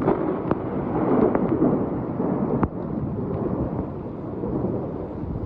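Hailstorm: a loud, low rumbling roar with scattered sharp ticks of hailstones striking.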